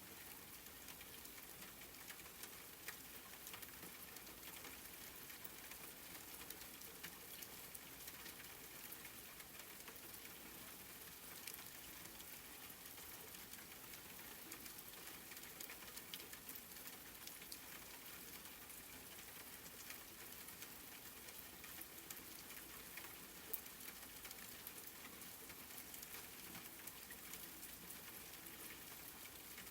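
Faint, steady rain: an even hiss of falling rain dotted with many fine drop ticks, with one sharper drop about two-thirds of the way through.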